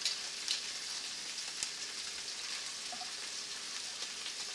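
Prawns sizzling in hot olive oil, butter and garlic in a stainless-steel sauté pan over high heat: a steady frying hiss with a few sharp crackles, the loudest about half a second in.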